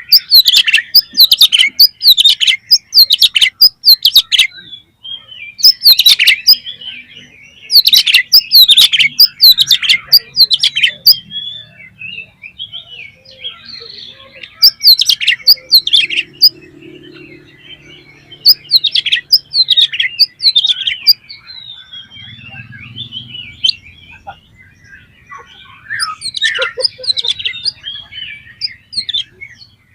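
Oriental magpie-robin (kacer) singing loudly in rapid bursts of whistled, chattering phrases a second or two long, with softer twittering in the gaps between bursts.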